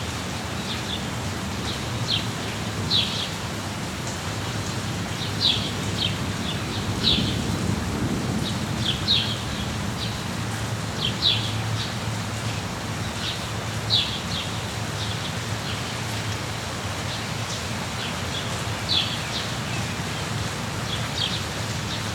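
Steady rain hiss with a low rumble beneath it, and a bird giving short, high chirps every second or two.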